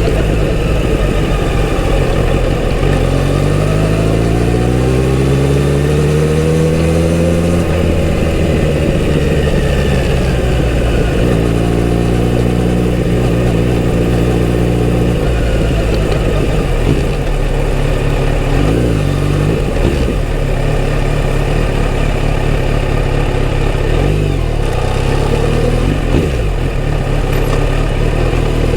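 Kawasaki Z900RS inline-four engine on its stock exhaust while riding. The pitch climbs steadily for about five seconds under acceleration and drops at a gear change. It then holds a steady note, with a few smaller rises and falls of the revs later on.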